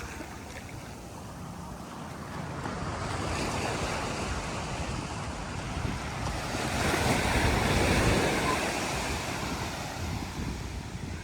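Sea surf: a wave breaking and washing up the sand, building to its loudest about seven to eight seconds in, with wind buffeting the microphone.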